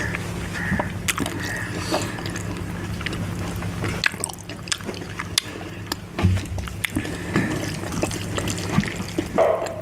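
Close-up wet eating sounds from mutton curry and rice: many short, sharp clicks and squelches from chewing and lip-smacking. A steady low hum stops about four seconds in.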